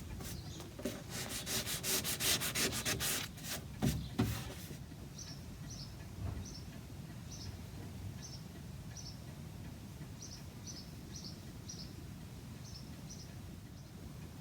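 Sandpaper rubbing on wood in quick back-and-forth strokes, stopping about five seconds in; after that, short high bird chirps, often in pairs, recur at intervals.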